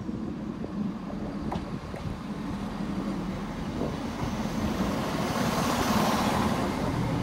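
Transport for Wales Class 170 Turbostar diesel multiple unit drawing into the platform and passing close by: a steady underfloor diesel rumble, with a hiss of wheels on rail that builds and is loudest about six seconds in.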